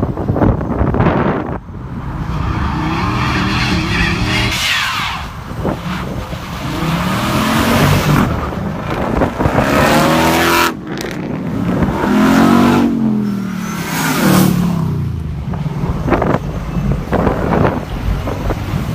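Jeep Grand Cherokee SRT V8s revving and accelerating hard past one after another. The engine note rises and falls in pitch several times as each one pulls away.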